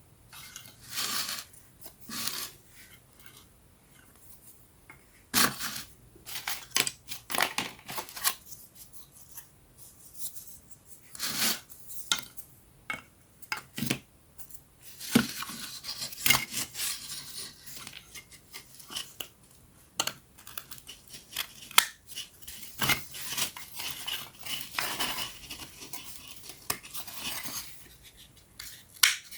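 Laser-cut wooden puzzle pieces being handled and fitted together by hand: irregular sharp clicks and taps of thin wood, with stretches of rubbing and scraping.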